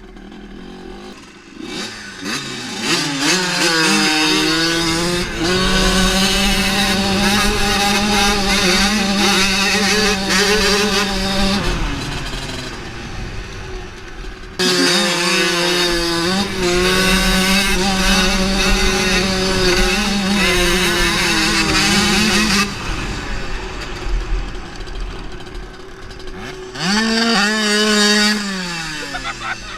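Dirt bike engine revving up and held at high revs. It drops off around twelve seconds in, comes straight back to high revs about two seconds later, and eases off, with one last rev rising and falling near the end.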